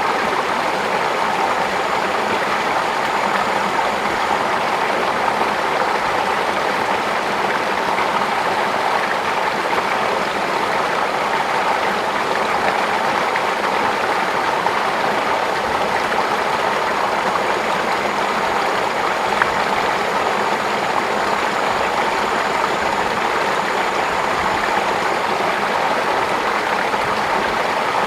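Steady rush of flowing water, like a small stream running among rice paddies, even and unbroken throughout. A faint thin high tone rises above it for a few seconds at the start and again in the second half.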